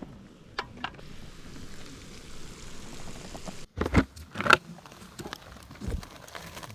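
Food sizzling and crackling as it cooks, with two sharp knocks about four seconds in.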